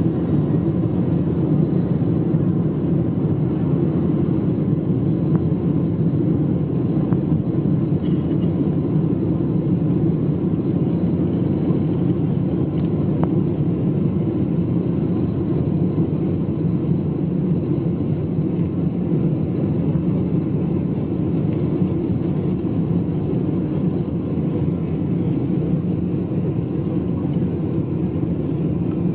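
Steady low rumble of a Boeing 747-400's engines and rushing air, heard inside the passenger cabin.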